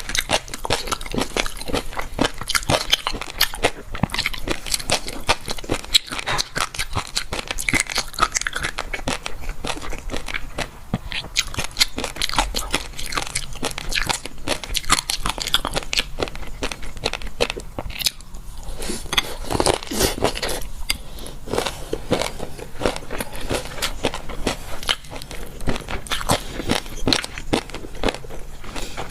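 A person chewing crunchy food close to the microphone: a dense, continuous run of crisp crunches and bites.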